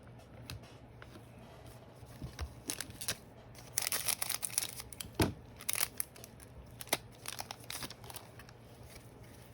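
Trading cards and their packaging being handled: crinkling rustles and sharp little clicks, busiest around the middle.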